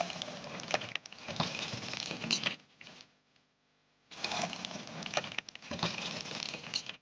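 Crinkling and rustling handling noise dotted with small clicks, in two stretches separated by a short pause about three seconds in; it cuts off abruptly at the end.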